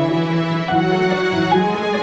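Mobile phone ringtone playing: a slow melodic tune of held notes.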